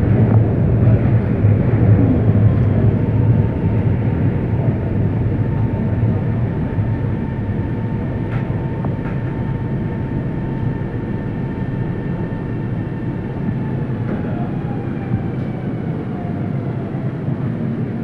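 Cabin ambience of a CRRC Sifang Type A metro train standing at a station platform: a steady low hum from its onboard equipment with a faint high whine, and a single light click about eight seconds in.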